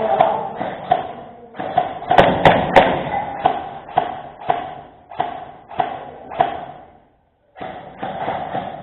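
Footsteps at a steady walking pace, about two a second, heard close to the microphone, with a few sharp clicks about two seconds in.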